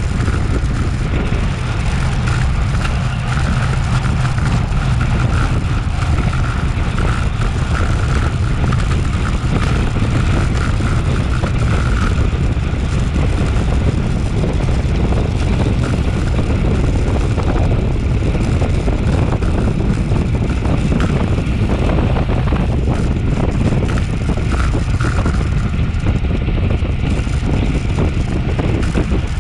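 Wind rushing over an action camera's microphone while riding a road bike at race speed, a steady low rumble without breaks. A faint steady tone rides on it and fades about twelve seconds in.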